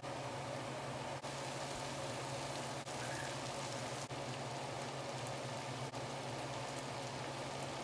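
Chopped steak sizzling and simmering in its sauce in a skillet on a gas stove: a steady hiss with a low hum under it, briefly dropping out a few times.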